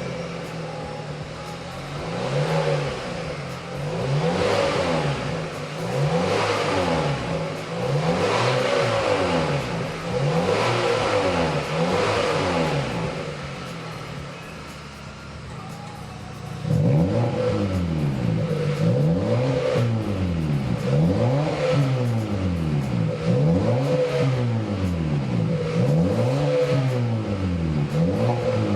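Kia All-New K3's engine being free-revved through its aftermarket dual variable-valve exhaust, repeated blips that rise and fall about every two seconds. The exhaust gets clearly louder about 17 seconds in and keeps revving at that level.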